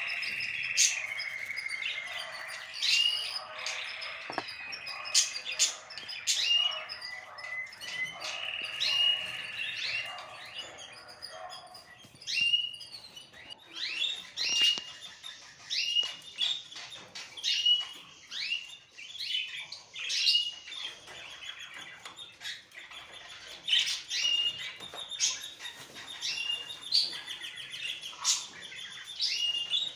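Pet birds chirping: a dense stretch of warbling chatter, then short sharp chirps repeating about once a second, with small clicks in between.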